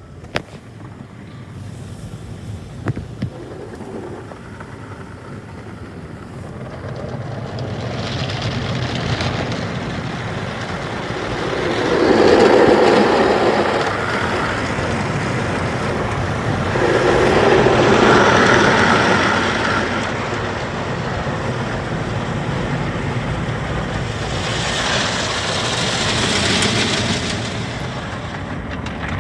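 Automatic tunnel car wash equipment heard from inside the car: a steady rush of spraying water and running machinery that builds over the first seconds and swells loudly three times.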